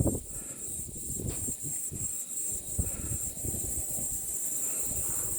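Insects chirring in a steady high-pitched chorus with a faint regular pulse, over an uneven low rumble.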